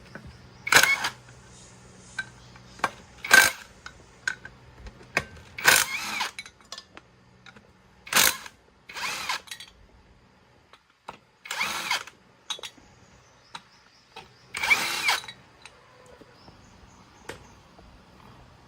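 A power tool run in short bursts, seven times, each lasting under a second, with small clicks and knocks between them.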